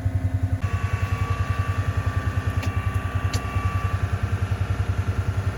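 A vehicle engine running at a steady low speed, a regular low throb of about ten pulses a second, with two short clicks near the middle.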